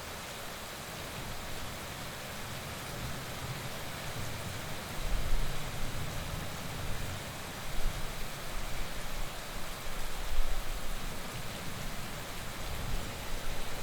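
Heavy rain falling as a steady, even hiss. From about five seconds in it is joined by irregular low rumbling surges.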